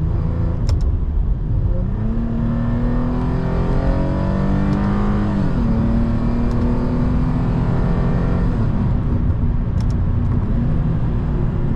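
Lexus IS250's 2.5-litre V6 with an ECU tune, gutted cats and a valved exhaust, heard from inside the cabin as the car accelerates. The pitch rises steadily, drops with a gear change about five seconds in, pulls again, then falls away near the end as the driver backs off.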